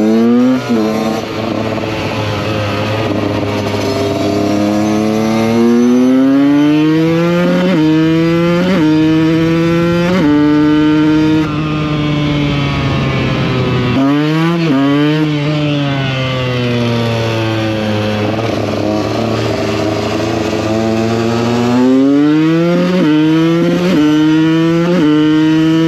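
Two-stroke supermoto motorcycle engine heard from on board, pulling hard up through the gears with a short dip in pitch at each upshift. Around ten seconds in it eases off and the pitch falls as it slows, then it accelerates and shifts up through the gears again near the end.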